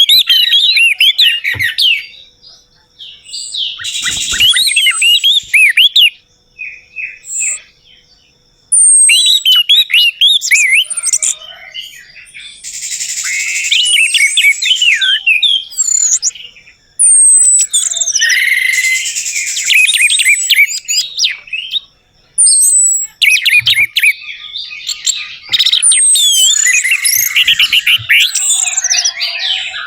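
Orange-headed thrush (anis merah) song: loud bursts of rapid, varied whistles, trills and chattering notes, phrase after phrase with short pauses between them, played as a lure song to set another thrush singing.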